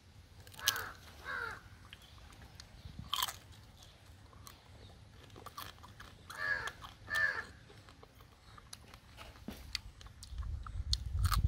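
A person eating pepper-fried crab with his fingers: chewing, with sharp crackles and clicks of crab shell that grow busier towards the end. Crows caw in pairs, about a second in and again around six to seven seconds in.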